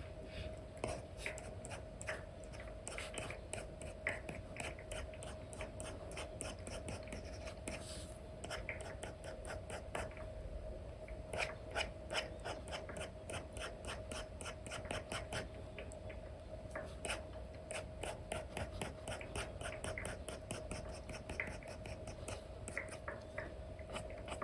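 Apple Pencil tip scratching and tapping on an iPad's paper-like screen film in quick, short brush strokes, with a faint steady hum under it.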